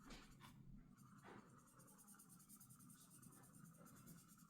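Faint scratching of a felt-tip marker writing on a laminated paper sheet, with a couple of soft handling ticks.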